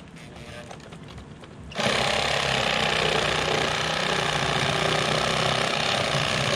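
A reciprocating saw (Sawzall) starts up about two seconds in and runs steadily, cutting through a downed tree log.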